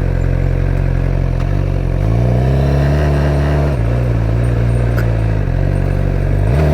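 Suzuki GSX-R600 inline-four running through a Yoshimura exhaust while riding, the engine note steady at first and then climbing about two seconds in. It drops back near the middle, rises again, and dips briefly near the end as the throttle and gears change.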